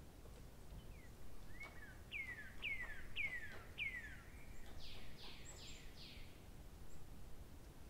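Faint bird song: four falling whistled notes about half a second apart, then a few harsher, higher notes, with scattered faint clicks.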